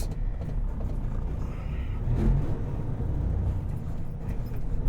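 Semi truck's diesel engine running low and steady.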